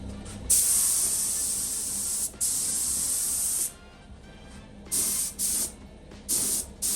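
Primer being sprayed onto the bare-metal truck bed panel: a long hissing spray with one short break, then four short bursts.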